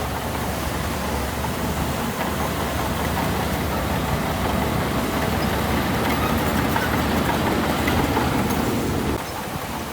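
Heavy diesel engine of earthmoving machinery running steadily, growing a little louder toward the middle and dropping off suddenly about nine seconds in.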